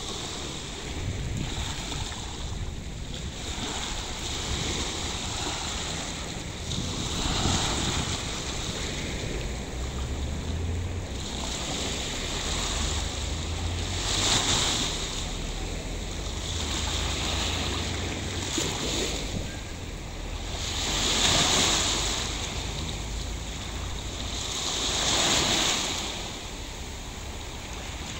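Sea waves breaking and washing up the beach, a hissing surge every few seconds, with wind rumbling on the microphone.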